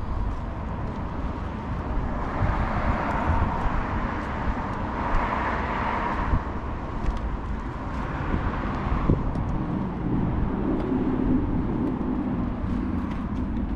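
Motor vehicle sound: a broad swell of noise over several seconds, then a lower, steadier engine note near the end, over a constant low rumble.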